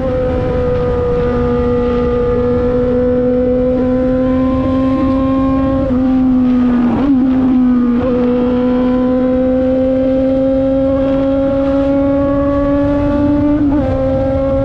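Yamaha XJ6's 600 cc inline-four engine through a full Akrapovič exhaust, running at high revs under steady load. Its pitch climbs slowly and drops back sharply twice, about halfway through and near the end, as with upshifts.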